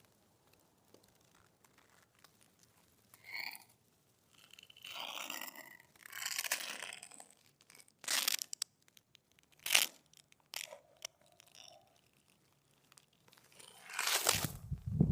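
Several separate crunching, tearing rustles a second or two apart, then a louder low rumbling noise begins near the end.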